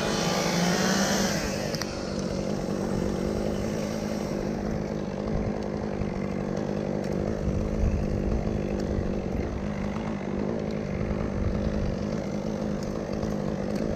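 Gas chainsaw running steadily. It is cutting into wood for about the first two seconds, then runs on with less high-pitched cutting noise.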